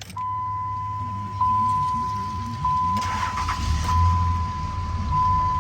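A steady single-pitched electronic warning tone from the truck's cab sounds without a break. Under it is the low, steady rumble of an engine running, which swells briefly near the end.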